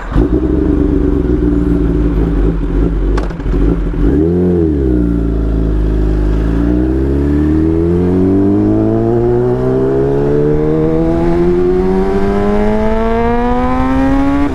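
Kawasaki ZX-10RR's inline-four engine through an Arrow Pro-Race exhaust, pulling away at low revs. About four seconds in it blips quickly up and down, then the revs climb in one long, steady rise as the bike accelerates.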